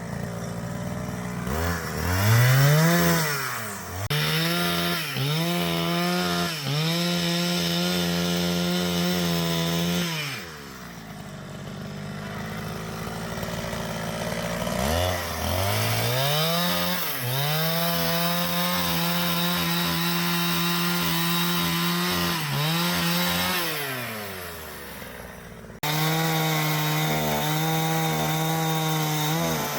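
Two-stroke chainsaw revved to full throttle and cutting through a log, its pitch holding high with short dips; it drops back to idle about ten seconds in. It revs up again for a second long cut, and resumes suddenly near the end.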